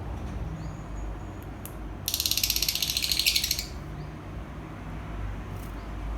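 Lovebird giving a rapid, harsh chattering trill of about a dozen pulses a second, lasting about a second and a half a couple of seconds in. Faint short chirps and a low rumble lie underneath.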